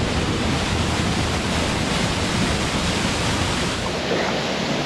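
Steady rush of a waterfall, Fish Falls, pouring over rock.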